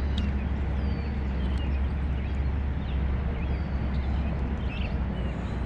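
Wind buffeting the microphone as a steady low rumble, with birds chirping now and then over it.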